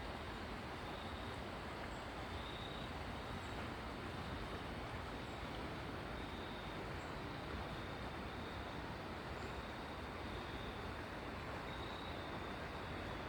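River water running over rocks: a steady, even rush, with faint high chirps now and then.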